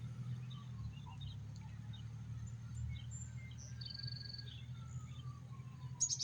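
Birds chirping and calling in short scattered notes, with a buzzy trill about four seconds in, over a steady low rumble from a distant approaching freight train.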